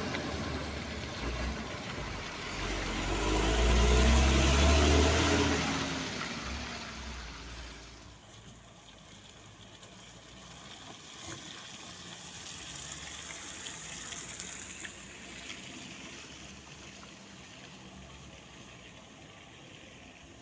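Heavy diesel truck passing by. Its engine grows louder, is loudest about four seconds in, and fades away by about eight seconds. Faint traffic follows.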